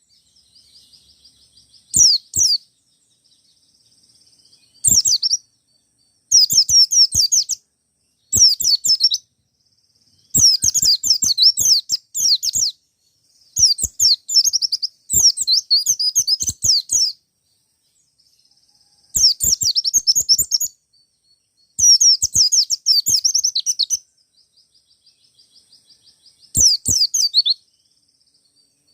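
White-eye (pleci), a wild-type bird, singing in repeated bursts of rapid, high twittering notes, each a second or two long. About nine bursts come in turn, with softer twittering between them.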